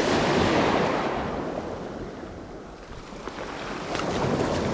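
Sea waves washing onto the shore: a surge of surf that fades over a couple of seconds, then builds again near the end.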